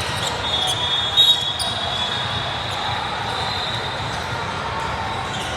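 Basketball game in a gym: steady crowd din with a ball bouncing, and a thin high squeal through the first few seconds, with a sharp knock about a second in.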